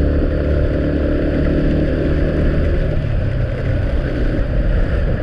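A vehicle engine runs at a steady note over a constant hiss of heavy rain. The engine note fades about three seconds in, as it eases off, leaving mostly the rain.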